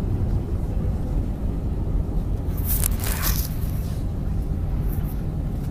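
Airliner cabin noise: a steady low rumble from the engines and the airframe, with a brief hiss about halfway through and a shorter one near the end.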